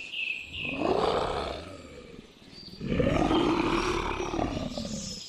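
Lion roaring twice: a shorter roar about a second in, then a longer, louder one from about three seconds in.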